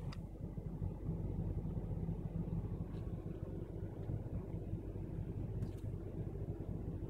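Car engine idling, a steady low rumble heard from inside the car's cabin in a stationary traffic jam, with a few faint ticks.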